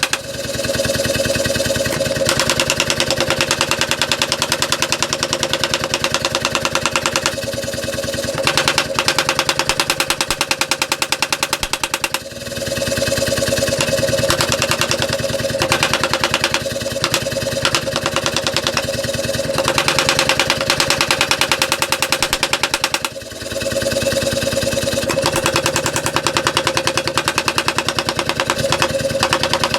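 Rapid, machine-even hammer blows forging hot steel, over a steady hum; the hammering breaks off briefly twice.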